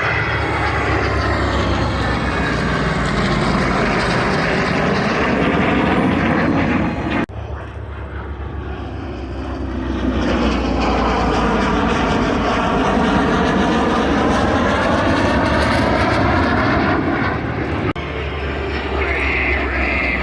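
Loud military jet aircraft passing low overhead, its engine noise swelling and sweeping in pitch. The sound breaks off abruptly about seven seconds in, and then a second low pass follows.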